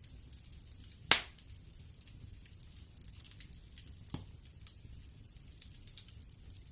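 Wood fire crackling in a fireplace: scattered small snaps and pops over a low rumble, with one loud crack about a second in and a lesser pop about four seconds in.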